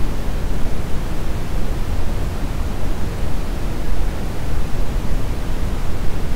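Steady brown noise: a deep, even rushing hiss, strongest in the low end and fading toward the highs, with no changes.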